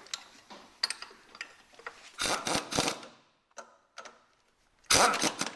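Hand tools working on metal: a few light clicks, then three quick loud rasping strokes about two seconds in, more scattered clicks, and a dense run of loud strokes near the end.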